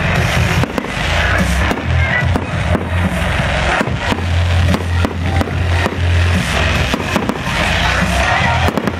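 Fireworks bursting and crackling in a rapid run of sharp bangs, over loud music with a heavy, steady bass line.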